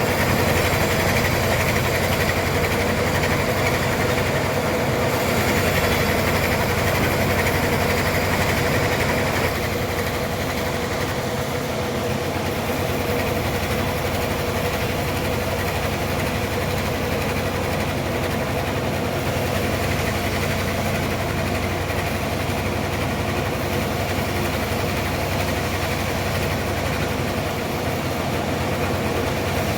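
Sawmill engine running steadily with a constant hum; the sound eases slightly about nine seconds in.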